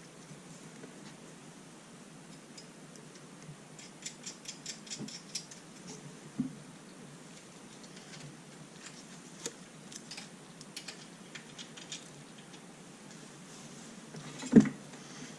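Small clicks and ticks of wires and small tools being handled, including a quick run of about seven clicks about four seconds in. A single loud knock comes near the end.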